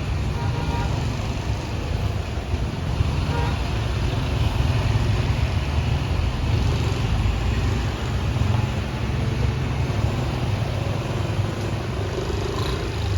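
Steady low rumble of slow-moving road traffic, trucks and cars running on a mountain road.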